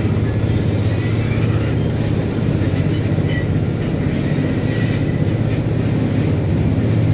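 Steady low drone of a Supercat fast-craft's engines while the vessel is under way.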